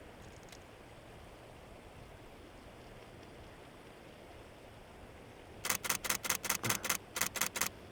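Camera shutter firing in continuous bursts: two quick runs of rapid, evenly spaced clicks, about six or seven a second, starting about five and a half seconds in, over a faint steady hiss of wind and surf.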